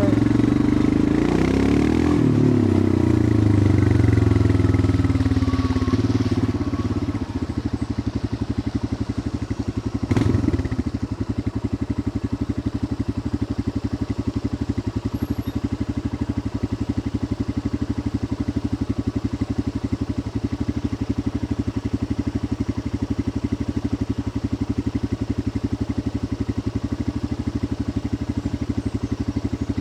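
Royal Enfield Himalayan 411's air-cooled single-cylinder engine under way. It is louder with shifting pitch for the first several seconds, then settles to a steady thump at an even cruising speed. There is a brief knock about ten seconds in.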